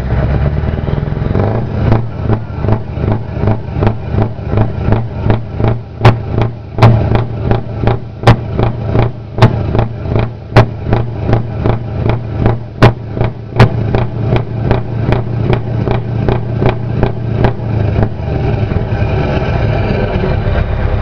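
Scania V8 diesel truck engine idling, then blipped rapidly and rhythmically, about two revs a second, for some fifteen seconds, with sharp cracks on several of the peaks; it settles back to a steady idle near the end.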